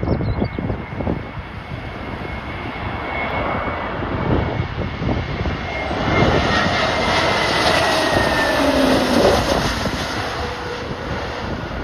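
Jet airliner on approach to land passing close by, its engine noise swelling to a peak in the second half, with the engine whine falling slowly in pitch as it goes past. Gusty wind buffets the microphone throughout.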